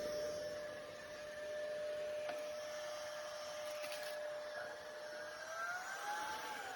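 Fieety cordless stick vacuum cleaner running with a steady motor whine; near the end its pitch rises and then starts to fall back.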